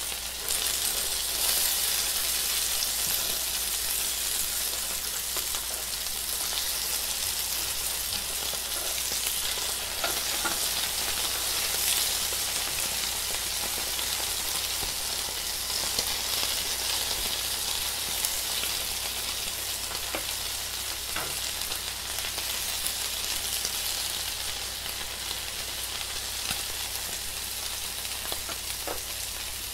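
Oyster pancake batter frying in hot oil in a nonstick pan, a steady sizzle with a few small pops. A low steady hum sits underneath.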